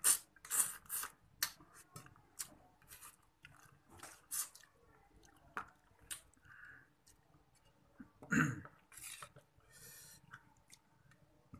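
Close-up wet eating sounds of a person chewing crab and noodles: irregular short smacks and clicks of lips and mouth, with one louder burst about eight seconds in.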